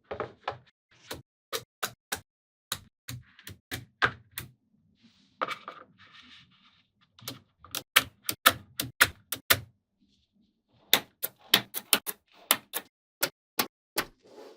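Small magnetic balls clicking sharply as they snap onto one another and are pressed into place, in quick irregular runs of clicks with a brief rattle and a pause of about a second.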